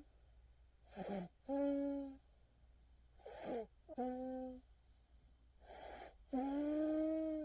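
A sleeping baby breathing noisily, three times. Each breath is a short raspy pull of air followed by a steady pitched, humming tone lasting up to about a second, roughly every two and a half seconds.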